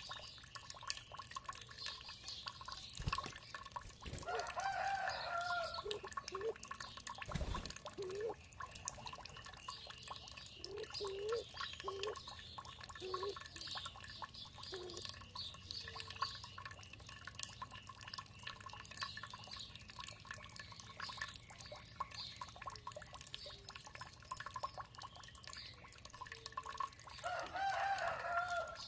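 Water dripping and trickling steadily while birds chirp, with a longer call about four seconds in and again near the end, and scattered short low notes in between.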